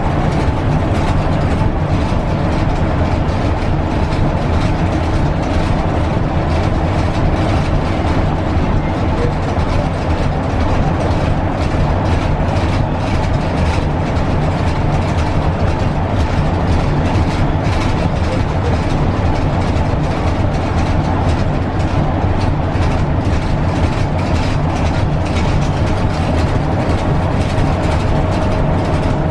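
Scania K320UB city bus running steadily at speed along the concrete O-Bahn guided busway: an even low engine-and-track rumble that holds level throughout.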